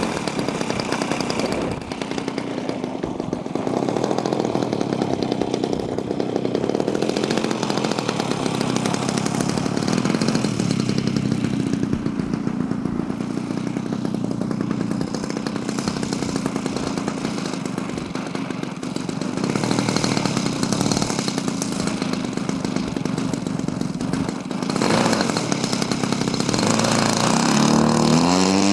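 A small engine running steadily, its revs climbing sharply near the end.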